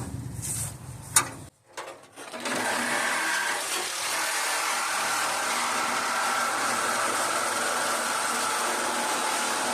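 A few sharp knocks in the first second or so, then a short pause. About two and a half seconds in, a corded electric saw starts and runs steadily, cutting through the sheet-metal fender of a Ford F-350.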